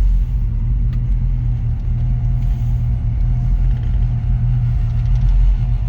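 1964½ Ford Mustang's engine idling with a steady low rumble, joined about two seconds in by a faint steady whine.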